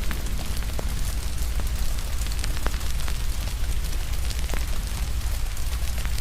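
Rain falling steadily with a wood fire crackling: irregular sharp pops over a steady hiss and low rumble, with the clearest pops a little under halfway through and again past the middle.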